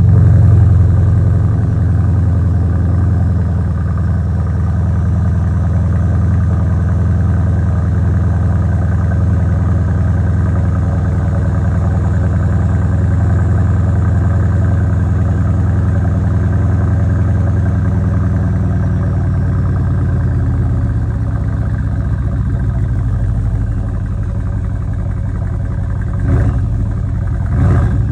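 Mercedes-AMG M157 twin-turbo V8 of an S63L AMG just after a cold start, running at a raised idle with a deep rumble and a faint high turbo whistle over it. The idle settles lower about twenty seconds in, with two short blips of the throttle near the end.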